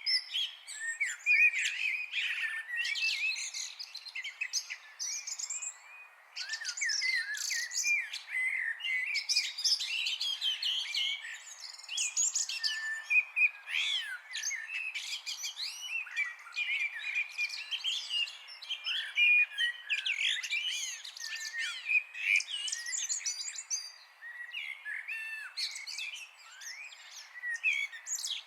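Several small songbirds chirping and singing at once in a dense, overlapping chorus of quick high chirps and trills.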